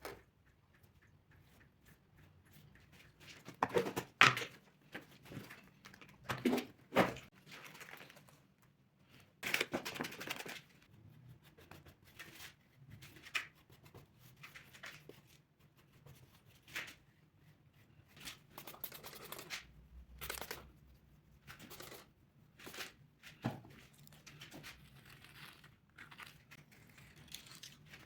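Irregular handling noises: tearing and crinkling sounds mixed with short knocks, in uneven bursts.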